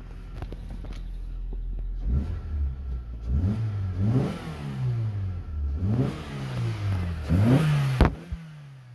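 Suzuki SX4's 1.6-litre M16A four-cylinder petrol engine idling, then revved in about five quick blips that rise and fall in pitch, then shut off suddenly near the end.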